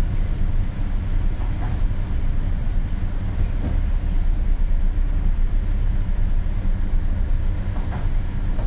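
Steady low rumble with an even hiss over it, from storm wind and rain in a cyclone, with a couple of faint clicks.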